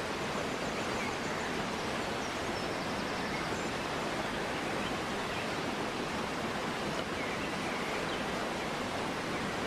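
River water rushing steadily over its bed, a continuous even wash, with a few faint bird chirps above it.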